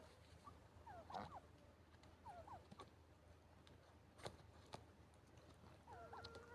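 Faint, scattered short calls from poultry, a few brief chirps that bend in pitch, with a couple of soft sharp clicks about four seconds in.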